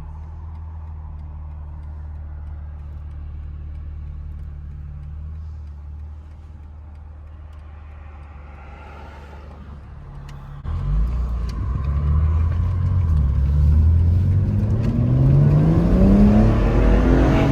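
BMW M3 Competition's twin-turbo straight-six running steadily at low revs. About ten seconds in it goes to full throttle, getting suddenly louder, with the engine note rising in pitch as the car accelerates hard.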